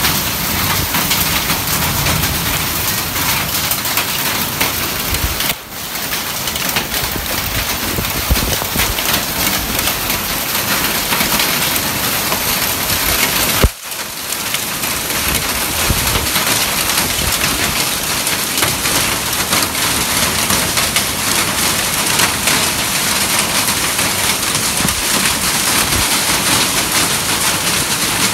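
Heavy rain pouring down steadily and pattering on surfaces during a thunderstorm, with two brief dips in the sound, about a fifth and halfway through.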